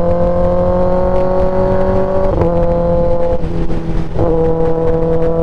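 2022 Kawasaki ZX10R's inline-four engine, fitted with an SC Project S1 exhaust, running steadily under way, its note rising slowly. It dips and drops away briefly about two and a half and three and a half seconds in, then picks back up at a steady pitch about four seconds in.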